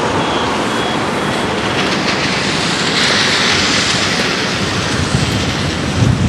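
Street traffic on a wet road: a steady hiss of tyres on wet asphalt, with a passing vehicle swelling about three seconds in.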